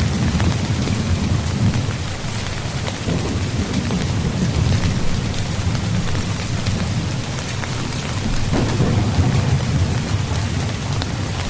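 Steady rain falling on a tent, with the patter of drops on the fabric over a continuous low rumble.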